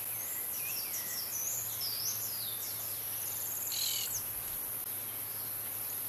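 A small songbird singing quick whistled notes that swoop up and down, ending in a short trill about four seconds in. A steady high-pitched hiss runs underneath throughout.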